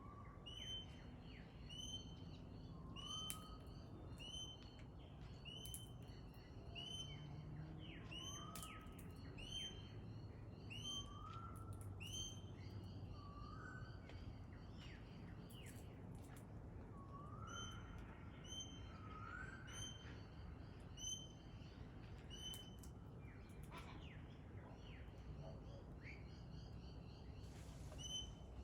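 Pale-headed rosella calling: a run of short, sharp chirps repeated about once a second, with an occasional lower rising whistle. The calls thin out and become irregular in the second half.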